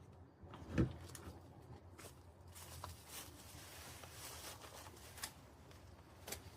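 Rustling and crackling of debris being cleared out, with one thump a little under a second in and a few sharp clicks later on.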